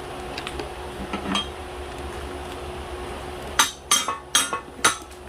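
Hammer striking steel, a few light taps and then four sharp, ringing blows in quick succession near the end, over a steady low hum.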